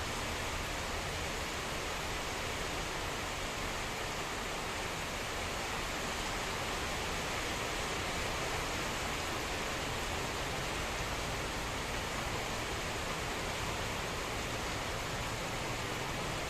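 Heavy rainstorm: rain pouring with strong wind, an even, unbroken hiss with no single event standing out.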